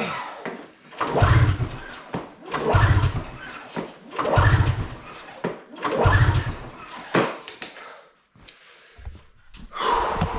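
Arctic Cat M8 snowmobile's two-stroke engine being pull-started by its recoil rope: about five pulls roughly a second and a half apart, each a short chugging turn-over, and the engine does not catch.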